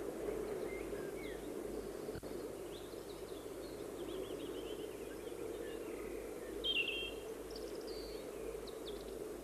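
Scattered calls and chirps of small birds, one a little louder about seven seconds in, over a steady low background hiss.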